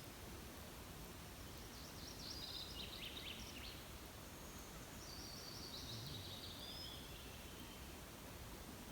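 Birds chirping faintly over a steady background hiss. A quick run of high notes comes about two seconds in, followed by a higher trilled phrase that falls slightly in pitch over several seconds.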